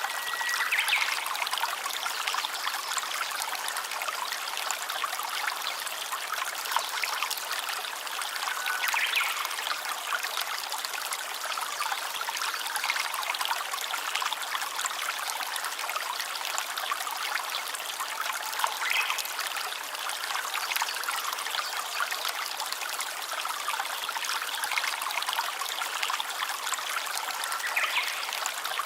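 Stream water running and trickling steadily, with a brief rising whistle cutting through about every nine to ten seconds.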